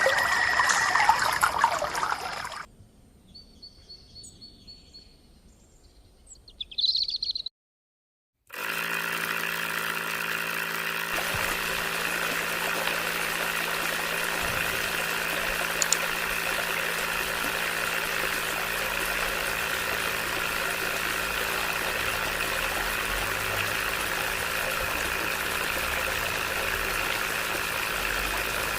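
Small electric motor of a homemade toy water pump running with a steady, even hum. It starts about eight seconds in, after a short loud passage and a brief silent gap.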